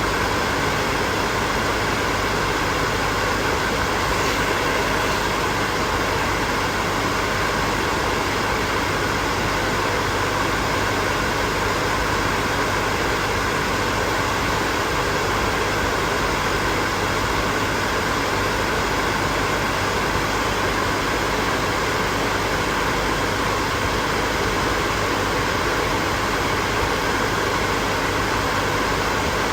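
Hair dryer running steadily: a constant rushing whoosh of blown air with the faint even hum of its motor.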